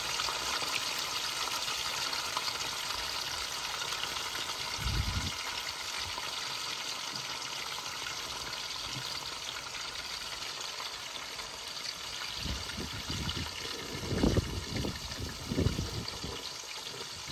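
Food sizzling steadily in a hot wok on a portable gas stove. A dull thump about five seconds in, and a run of louder dull thumps near the end.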